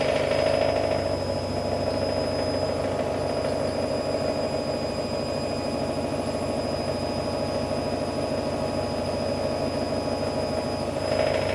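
AEG Lavamat Turbo washer-dryer running mid-cycle: a steady machine drone with a fast, even rumble and a thin high whine, a little louder near the start and again near the end.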